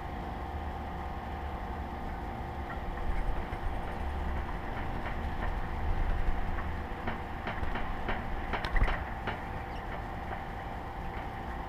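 A steady low rumble with a faint steady hum. About two-thirds of the way through comes a run of sharp taps and clicks: birds pecking and hopping on the tray feeder.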